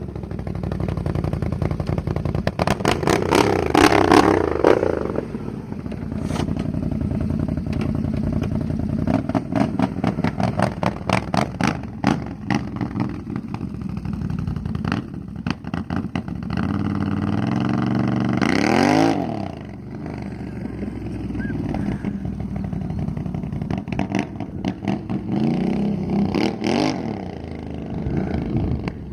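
Can-Am 1000 XT's V-twin engine running through a Two Brothers aftermarket exhaust: idling, and revved three times, briefly about three seconds in, highest about two-thirds of the way through, and once more, smaller, near the end.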